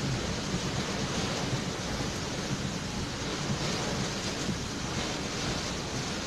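Torrential cyclone rain pouring in strong, gusting wind: a steady, dense hiss of rain with wind rumbling on the microphone.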